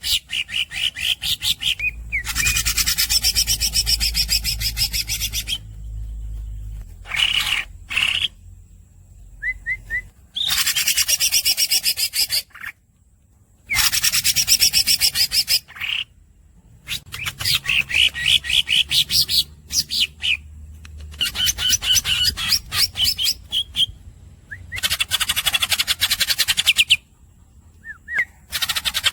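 Green leafbird (cucak ijo) singing in long, fast rolls: bouts of rapid repeated notes lasting a few seconds each, broken by short pauses and a few brief squeaky chirps.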